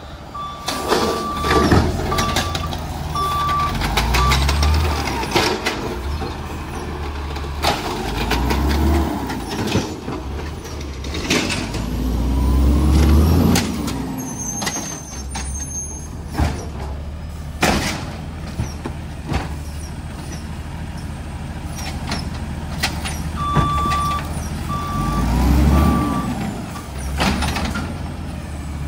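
Garbage truck at work: its engine revs up and back down three times, with many sharp clanks and knocks. Its reversing beeper sounds at the start and again near the end.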